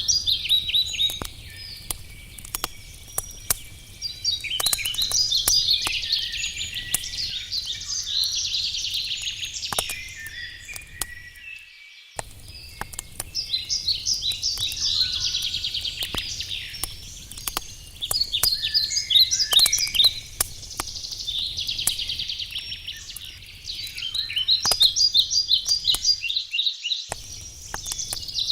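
Songbirds singing repeated trilled, chirping phrases a few seconds long, over the scattered sharp pops and crackles of a wood campfire burning.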